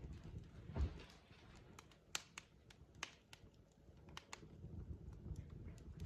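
Wood logs burning in a fireplace, crackling with irregular sharp pops over a low rumble, and a soft thump about a second in.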